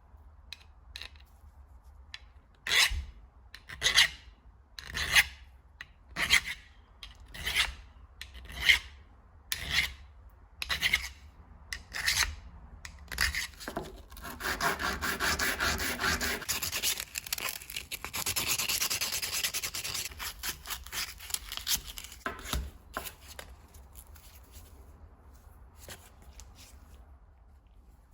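Abrasive hand strokes rubbing on a brass tool part, at first one stroke about every second, then a spell of quick continuous rubbing in the middle, thinning out to a few scattered strokes near the end.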